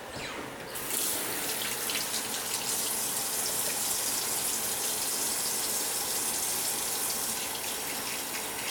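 Steady rush of running water, starting about a second in.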